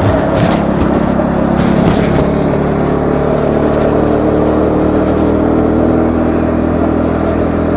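Bajaj Dominar 400's single-cylinder engine running under way at a fairly steady speed, its pitch wavering slightly in the first couple of seconds and then holding even, over a steady rush of road and wind noise.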